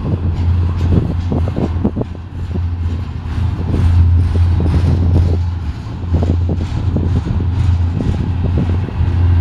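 BNSF double-stack container train's well cars rolling past at close range: steel wheels on rail make a steady low rumble, broken by frequent clicks and clatter.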